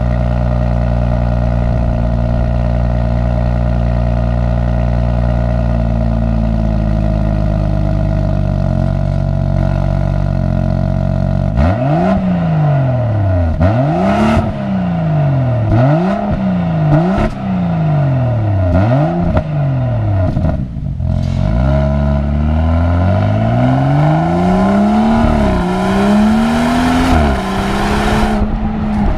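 2017 BMW X4 M40i's turbocharged 3.0-litre straight-six engine and exhaust running at a steady note, then, about twelve seconds in, revving again and again, the pitch climbing and falling with each rev.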